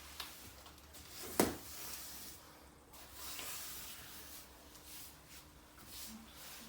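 Faint scraping and rustling of hand work, with one sharp knock about a second and a half in and a lighter click just after the start.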